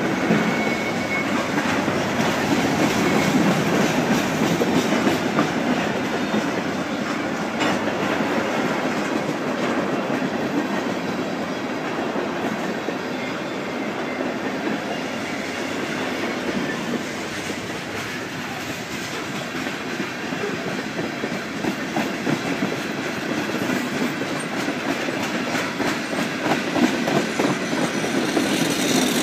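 Loaded freight cars of a manifest train (mostly tank cars) rolling steadily past close by, their wheels clicking over the rail joints with a continuous rumble and clatter.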